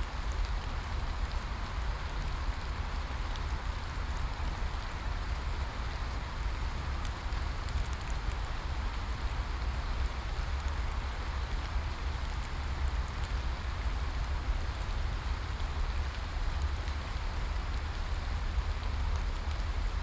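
Steady rain falling, an even hiss of drops with a deep low rumble underneath and faint scattered drop ticks.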